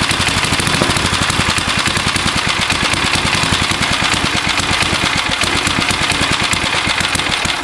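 3.5 horsepower Briggs and Stratton single-cylinder engine on an old Gilson lawnmower, running steadily with a rapid, even train of firing pulses.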